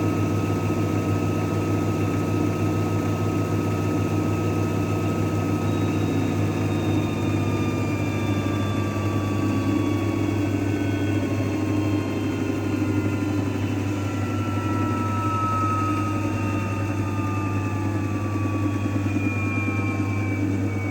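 AEG washing machine running with a steady low hum, while its motor whine slowly falls in pitch as the drum slows down.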